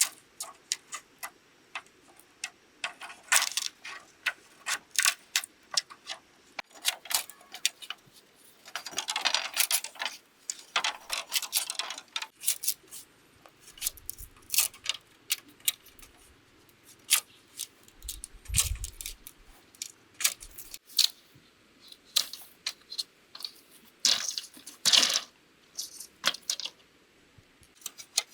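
Irregular sharp taps and clicks of hand work, with short scraping bursts about nine, eleven and twenty-five seconds in and a low thud a little after eighteen seconds.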